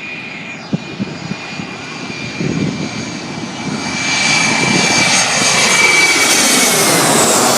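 Airplane engines passing close by: a steady high whine over a roar that grows louder, peaks near the end and starts to fall in pitch as the aircraft goes past.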